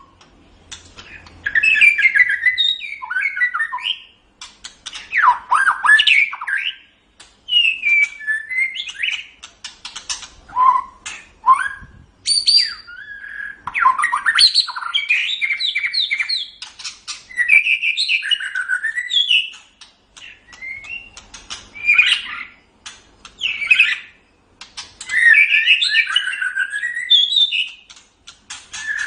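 White-rumped shama (murai batu) singing: a string of varied phrases, each a second or three long with short pauses between. The phrases are made of quick rising and falling whistles mixed with sharp clicks.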